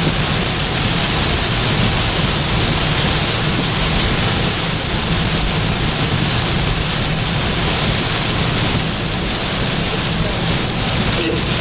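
Heavy rain beating steadily on a vehicle, an even hiss with a low rumble underneath.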